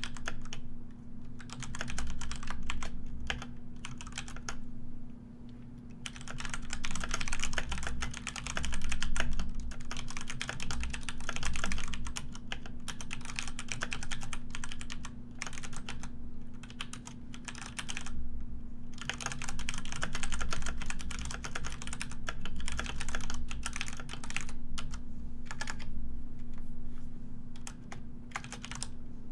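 Typing on a computer keyboard: rapid clicking keystrokes in fast runs, broken now and then by pauses of about a second. A steady low hum runs underneath.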